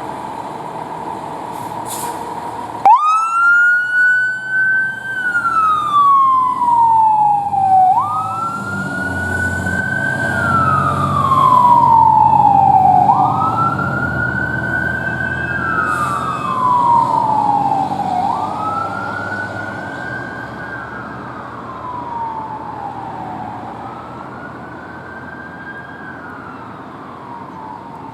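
Fire engine siren starting suddenly about three seconds in and wailing in repeated cycles, each rising quickly and then falling slowly over about five seconds. A low truck engine rumble joins as the apparatus passes, and the siren fades away near the end.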